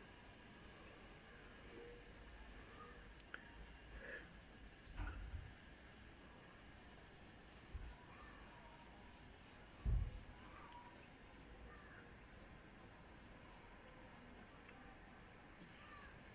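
Faint outdoor ambience of insects chirping steadily in a high, pulsing trill, with two short clusters of higher chirps, one about four seconds in and one near the end. Low dull thumps come about five and ten seconds in.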